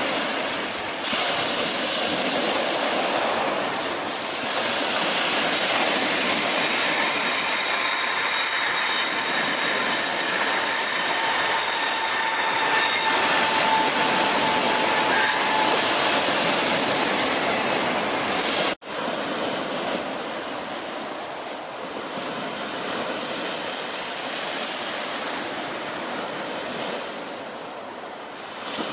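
A train passing close by on the seaside railway, a steady loud rumble with faint wheel squeal in the middle. After a sudden break about two-thirds of the way in, a quieter steady noise of surf.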